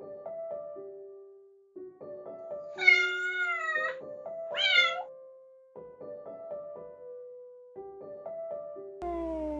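Kitten meowing twice, a longer meow about three seconds in and a shorter, rising-then-falling one just after, over light background music. Near the end a lower, drawn-out cat call begins, falling in pitch.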